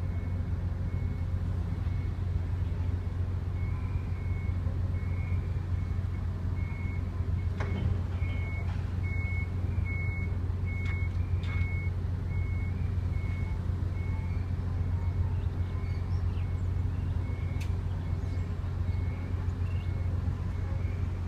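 Steady low engine drone, with a vehicle's reversing beeper sounding a short high beep about every three-quarters of a second from a few seconds in until near the end. A few faint knocks.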